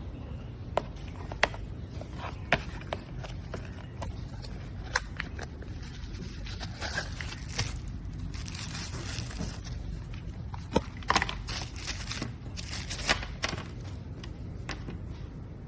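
Things being handled close by: scattered sharp clicks and taps, with bursts of scraping and rustling from about halfway through. A steady low background rumble sits under it.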